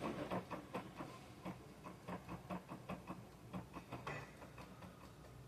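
Light clicks and ticks, a few a second in an uneven rhythm, from hands working on the mechanism of a jammed Elgin sewing machine.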